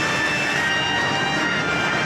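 Steady roar of a jet airliner in flight, mixed with film music.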